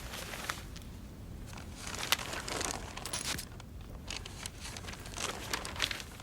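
Fire crackling in a fireplace: soft crackle and rustle with scattered sharp clicks, swelling twice, over a low steady hum.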